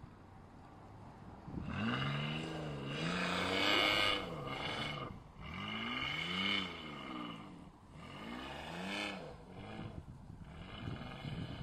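Isuzu VehiCROSS V6 revving up and down about three times as the SUV slides through snow. The engine has an odd, raspy note that the owner puts down to a cracked exhaust front pipe (Y-pipe).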